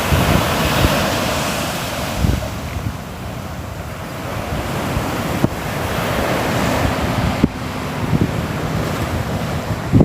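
Ocean waves washing in and out, the surf swelling and falling back, with wind buffeting the microphone in low gusts and a few sharp knocks.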